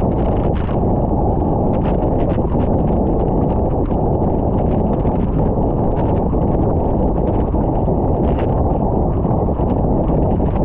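Wind buffeting the microphone of a camera on a bicycle descending at speed: a loud, steady rumble with scattered light ticks and taps throughout.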